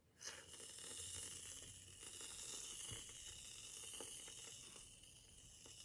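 Aerosol can of whipped cream spraying: a faint, steady hiss with a high note running through it, starting just after the beginning.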